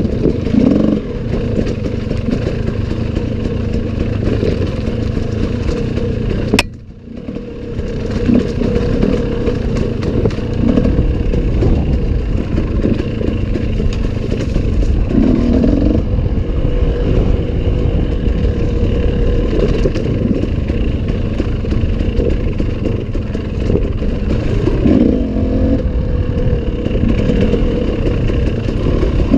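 Enduro motorcycle engine running continuously, the revs rising and falling a little with the throttle, with clatter over the top. About six and a half seconds in there is a sharp click, then the sound drops away briefly and builds back up.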